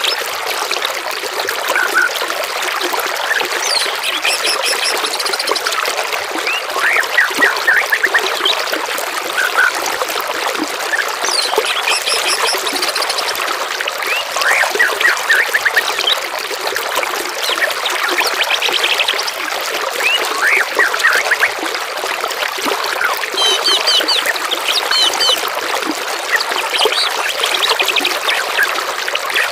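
Songbirds singing short chirps and trills, one phrase after another, over a steady trickle of running water.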